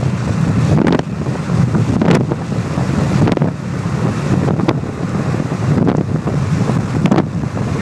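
Strong gusting wind buffeting the microphone in a loud, rumbling roar, with a brief sharp click a little over once a second.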